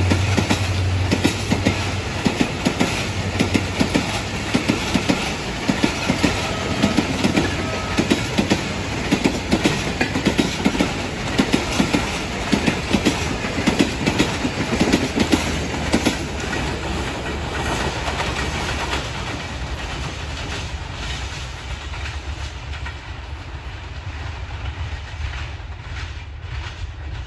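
A passenger train's coaches rolling past on the track, wheels clicking over the rail joints in a steady clickety-clack over a rumble. A low drone at the start fades within about two seconds, and the clicking thins out after about sixteen seconds as the train draws away and the sound slowly fades.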